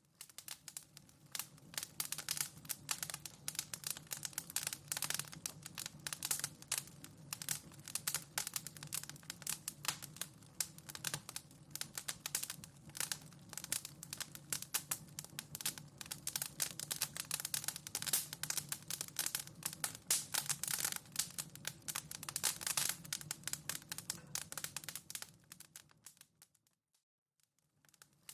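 Wood fire in a fireplace crackling, with dense irregular pops and snaps over a low steady rumble. Near the end it dies away almost to silence, then starts up again.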